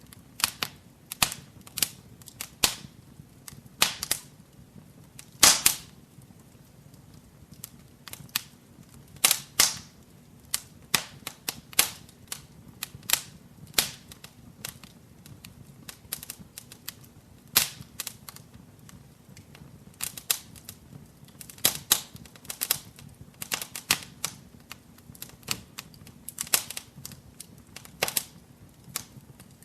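Wood fire burning in a fireplace, crackling with irregular sharp pops and snaps over a soft low rumble of flame.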